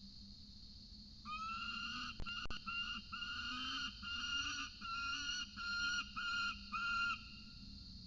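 Peregrine falcon calling: a run of about nine drawn-out, pitched calls in close succession, starting about a second in and stopping a second before the end. A steady high cicada drone runs underneath, with two sharp knocks a little over two seconds in.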